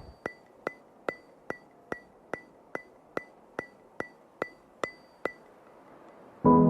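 A steady ticking of about thirteen sharp clicks, two to three a second, each with a short high ring; it stops a little after five seconds in. Piano music begins just before the end.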